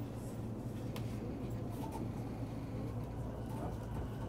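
Running noise inside a JR East E233-series electric commuter train car travelling between stations: a steady rumble of wheels on rail with a constant low hum.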